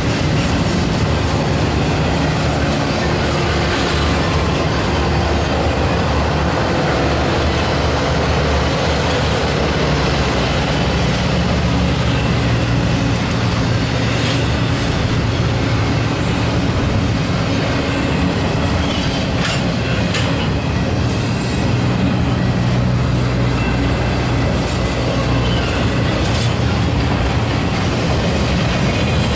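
Intermodal freight train's well cars, loaded with double-stacked containers and trailers, rolling past: a steady rumble and clatter of steel wheels on the rails, with a few sharp clanks about two-thirds of the way through.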